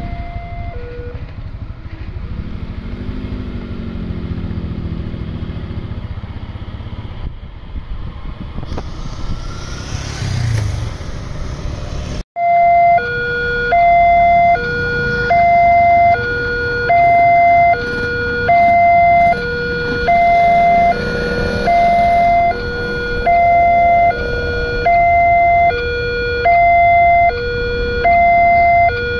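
Railway level-crossing warning alarm, loud, alternating between a higher and a lower tone about every 0.8 seconds. Before it, road traffic with a passing vehicle engine runs for about twelve seconds. The alarm starts abruptly at a cut.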